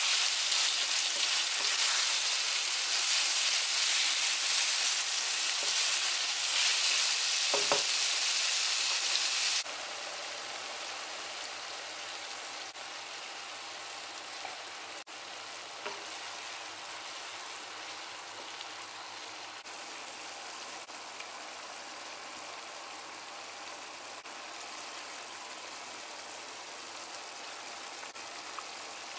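Chicken mince frying in a wok with a steady sizzle as it is stirred with a wooden spatula. About a third of the way through the sizzle drops abruptly to a quieter, even hiss.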